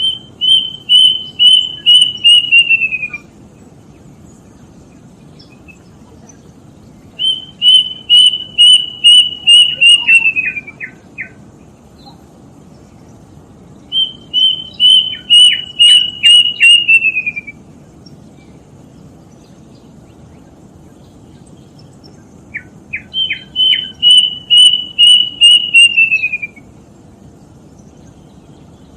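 Plaintive cuckoo (kedasih) singing four songs about seven seconds apart. Each song is a run of about eight to ten repeated notes that slide lower at the end. Twice, a few short lower notes come just after or just before a song, over a steady low background noise.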